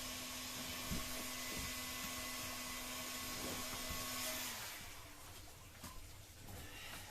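Hot-air heat gun running with a steady whirring hiss, softening the glue so the old rubber on a PVC boat's transom can be pulled off. It cuts off about four and a half seconds in, leaving faint clicks.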